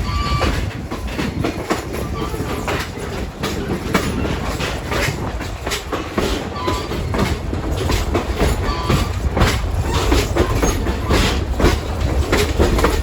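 Ride noise from aboard a moving passenger railcar: a steady low rumble with irregular clicks and knocks of the wheels over the rail, and a few brief, faint high squeals.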